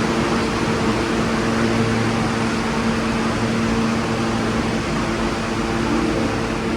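New York City subway car running, heard from inside the car: a steady rush of train noise with a constant low hum.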